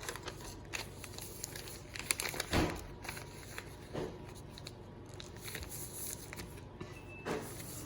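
A sheet of paper rustling and crinkling as a paper airplane's wing is folded back and creased, in short scattered rustles, the loudest about two and a half seconds in.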